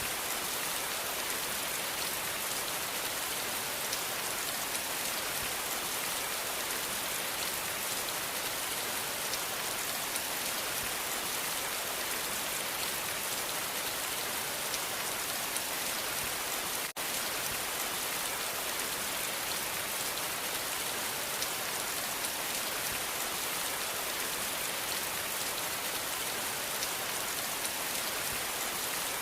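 Steady rain falling, an even hiss of many drops. The sound cuts out for an instant about seventeen seconds in.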